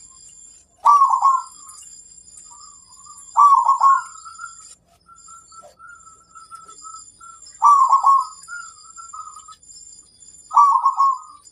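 Zebra dove cooing: four loud coos spaced about three seconds apart, each trailing off into softer rolling notes, with fainter cooing between them.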